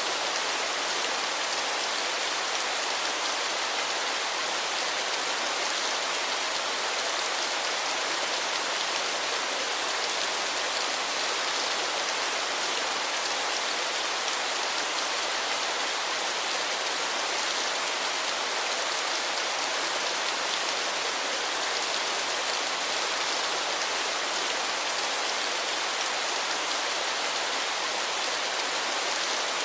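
Waterfall: falling water making a steady, even rushing hiss that holds the same level throughout, mostly bright with little deep rumble.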